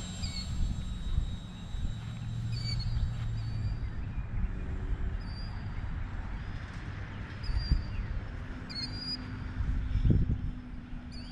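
A small bird repeating a short, high chirp about once a second, over a low rumble of wind on the microphone with a couple of low thumps. Underneath is the faint steady hum of the RC plane's motor and propeller, high overhead.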